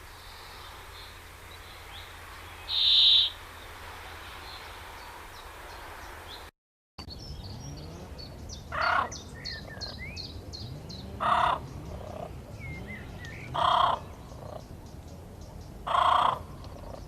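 Birds calling: faint chirping with one loud short call about three seconds in, then, after a brief break, a loud call repeated about every two and a half seconds over a background of many small chirps.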